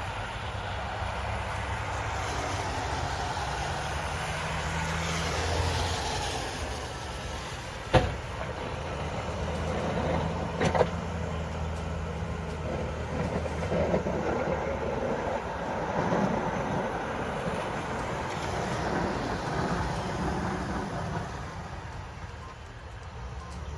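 A vehicle's engine running with a steady low rumble, with two sharp knocks, one about eight seconds in and one near eleven seconds in.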